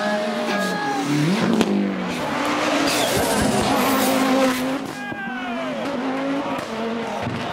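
Rally car engine revving, climbing in pitch about a second in, then running at a fairly steady speed. A loud burst of tyre noise comes about three to four seconds in.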